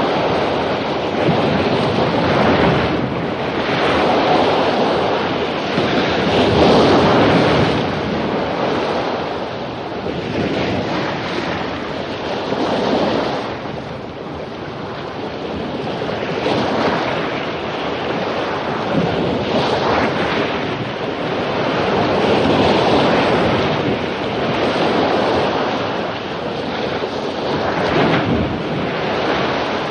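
Surf breaking on a beach after a storm: a steady rush of waves that swells and eases every few seconds, with wind noise.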